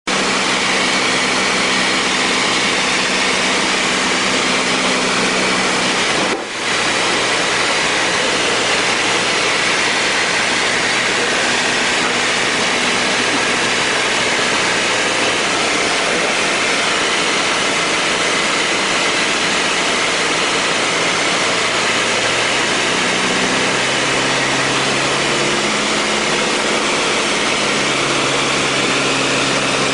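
A plane's engine runs steadily, with a single small thump about six seconds in as the plane strikes a bird. The engine note shifts lower in pitch from about 23 seconds in.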